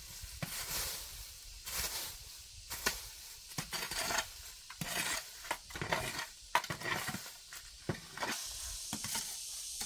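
Irregular rustling, scraping and light knocks of debris being cleared by hand.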